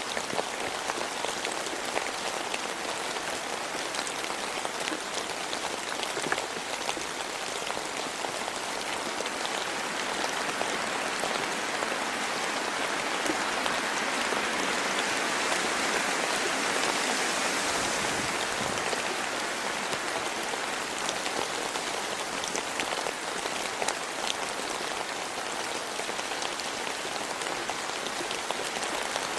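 Rain falling steadily, with many separate drops heard as small ticks; it grows heavier for a few seconds about halfway through.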